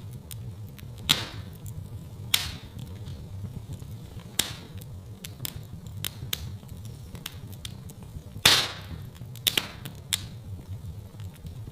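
Wood fire in a fireplace crackling: many sharp pops and snaps over a steady low rumble of burning. The biggest pops come about a second in, again at about two and a half seconds, and past eight seconds.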